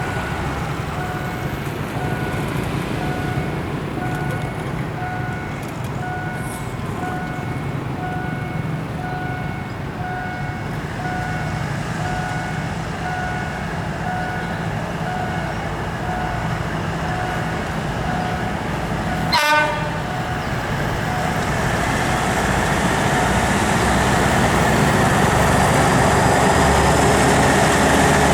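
Diesel-electric locomotive ALS 4119 running with a low rumble while a warning signal beeps over and over, about once a second or a little faster. About two-thirds of the way through, the locomotive gives one short horn blast, and then the train's noise swells steadily as it pulls away and gathers speed.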